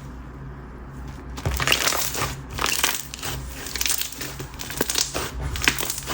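Clear slime with a gritty mulch topper mixed in, being squeezed and worked by hand. Dense crackling and popping of trapped air starts about one and a half seconds in.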